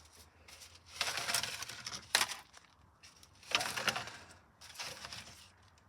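Scraping and rustling in three bursts, with a sharp clink just after the first, as the burnt, brittle remains of a plastic DVD case and disc are scooped out and handled.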